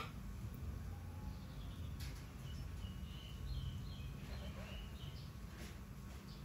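A short run of high, thin bird chirps about halfway through, over a steady low rumble of background noise.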